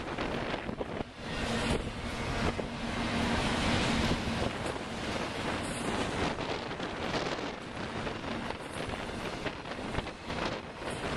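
Double-stack intermodal freight cars rolling past at close range: a steady rush of steel wheels on rail with frequent clicks and clatter and a faint low hum. Wind buffets the microphone.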